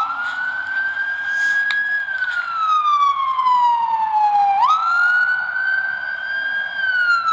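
Ambulance siren wailing. Its pitch jumps up, holds high, then slides slowly down, in cycles of about four and a half seconds; it rises again about halfway through and starts to fall near the end.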